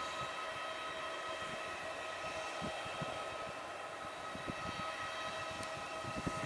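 Aircraft engine whining steadily at several fixed pitches, with low gusts of wind buffeting the microphone.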